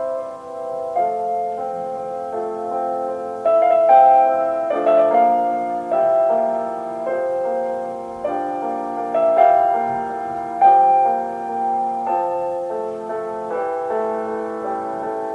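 Solo piano playing a slow, gentle classical piece, chords and melody notes struck about once a second and left to ring.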